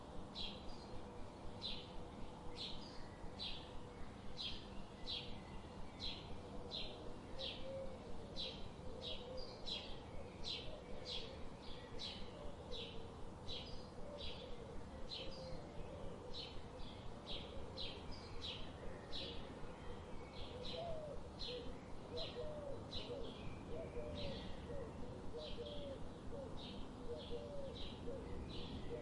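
Birds chirping: one short, high chirp repeated evenly about twice a second, with a lower, softer wavering call joining underneath partway through.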